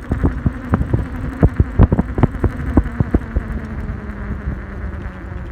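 1500 W hub-motor electric pit bike riding over rough ground: a string of irregular knocks and rattles from the bike over a steady low hum and wind on the microphone.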